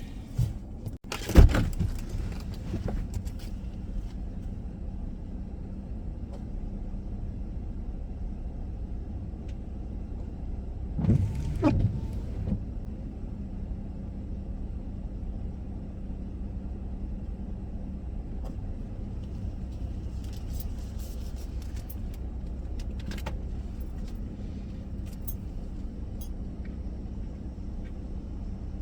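Dodge Grand Caravan minivan running, heard from inside the cabin as a steady low hum. There is a sharp knock about a second and a half in and a short rattle around the middle.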